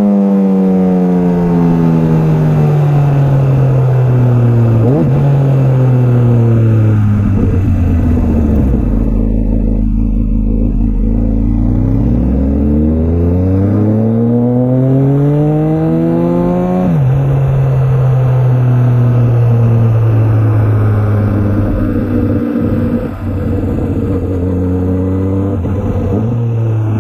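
2004 Honda CBR1000RR Fireblade's inline-four through a Jardine titanium exhaust. The engine note falls as the bike slows, with a downshift blip about five seconds in. It stays low for a few seconds, then rises as the bike accelerates, drops at an upshift, and runs steadily for the last ten seconds.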